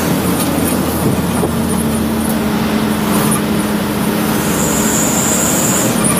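Truck engine running under way with tyre and road noise, its hum shifting up to a higher steady note about one and a half seconds in. A high-pitched hiss comes in for over a second near the end.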